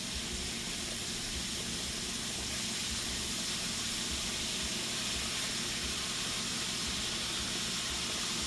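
Food frying in hot oil in a pan: a steady, even sizzle with no break.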